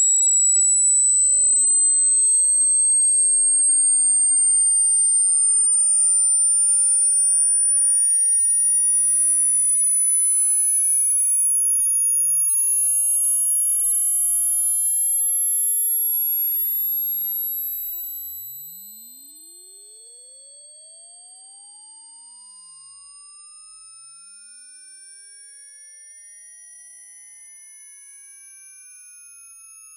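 A loud, pure electronic sine tone gliding slowly and steadily upward in pitch from a high whistle to a very high one: a speaker-clearing tone played to shake water out of a phone's quiet speaker. It cuts off just before the end.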